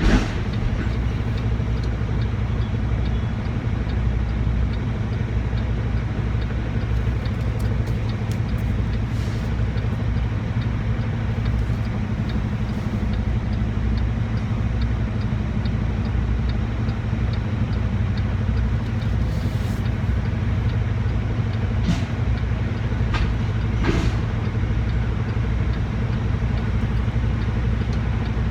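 Semi truck's diesel engine running steadily at low revs, heard from inside the cab while reversing into a loading dock, with a couple of short sharp clicks near the end.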